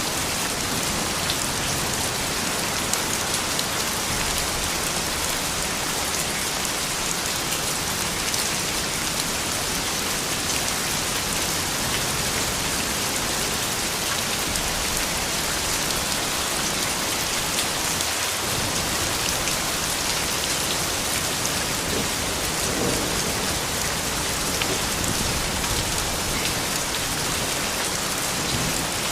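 Soft rain falling steadily, an even hiss of many drops.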